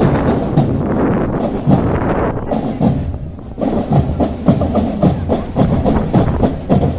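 School marching drum band playing, its drums struck in a steady, fast rhythm.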